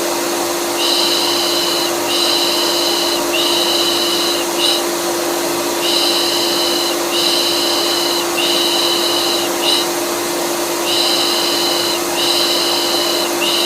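Electric vacuum cleaner running with a steady hum, overlaid by a repeated "pış pış" shushing meant to soothe a colicky baby. The shushes come in groups of three long ones and a short fourth, with the group repeating about every five seconds.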